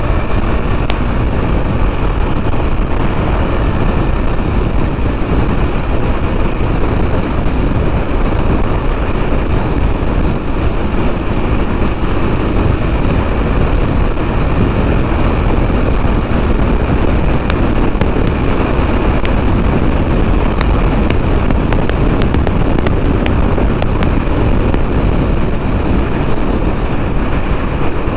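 KTM Duke 390 single-cylinder motorcycle running at road speed, with steady wind rushing over the microphone.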